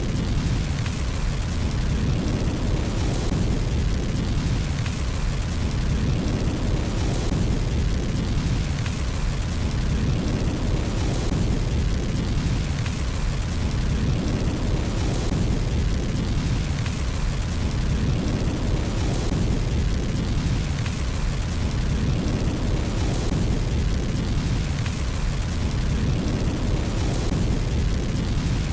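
Fire burning in a fireplace: a steady low rumble with bursts of crackling that recur at an even pace, about every two seconds.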